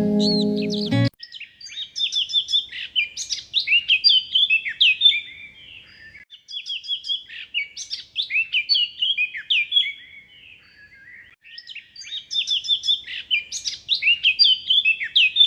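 A songbird singing long, rapid phrases of high chirps and quick downward-sweeping whistles, three phrases with short pauses between them. A music track plays underneath for about the first second and then cuts off.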